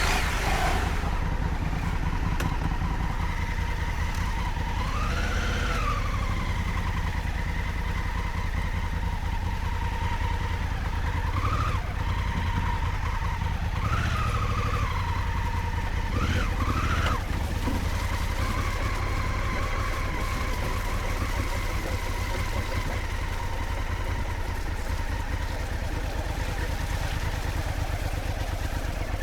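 A maxi-enduro motorcycle engine runs steadily at low speed on a muddy off-road descent. Its revs rise and fall briefly a few times, about a third and about halfway through.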